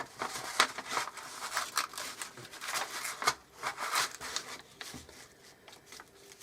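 A sheet of paper rustling and crinkling as it is handled, in a run of short irregular rustles.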